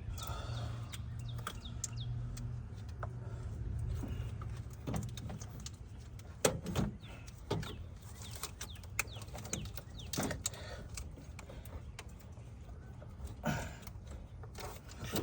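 Scattered sharp clinks and knocks of hand tools and metal parts as an alternator is worked into place in a car's engine bay, about a handful of strikes spread over several seconds, with birds chirping and a low steady hum behind.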